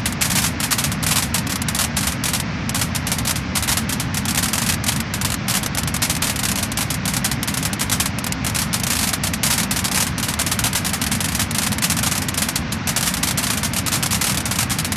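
Wood fire crackling and popping steadily, dense rapid crackles over a continuous low rushing noise.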